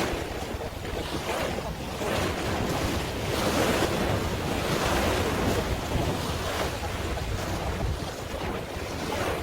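Wind rushing over the microphone with waves washing, a steady noise that swells louder in the middle.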